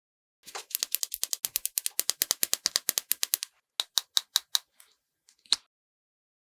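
Rapid crisp tapping, about eight taps a second for some three seconds. After a short pause come about five slower taps and a few single clicks.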